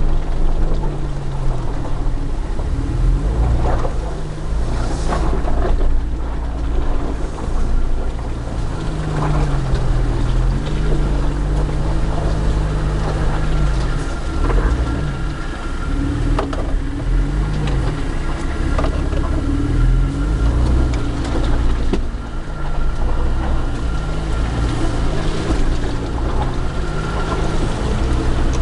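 Jeep TJ Wrangler's engine running as it crawls along a rutted off-road track, the revs rising and falling every few seconds, heard from inside the cab with a heavy low rumble. Occasional knocks and rattles come through over it.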